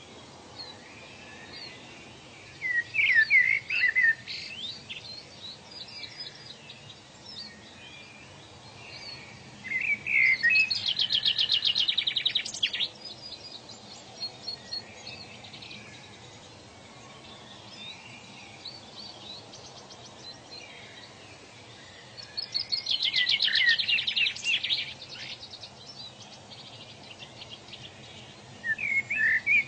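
Songbirds singing in short phrases every several seconds, two of them ending in a fast high trill, over a steady background hiss of forest ambience.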